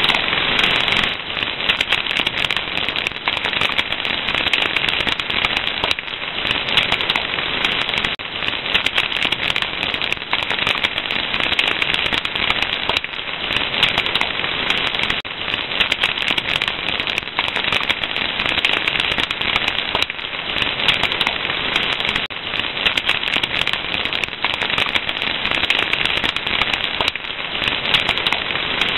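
Fire crackling and popping steadily, a dense run of many small snaps over a continuous hiss.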